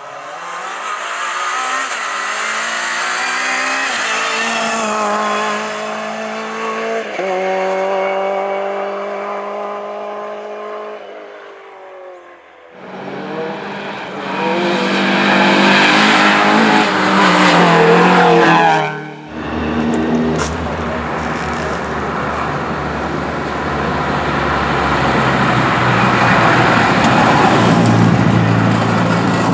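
Hill-climb race car engines accelerating hard, the pitch climbing and dropping in steps as they shift gears while passing. The sound cuts abruptly about 13 and 19 seconds in to a different car, the last one with a deeper, steadier engine note.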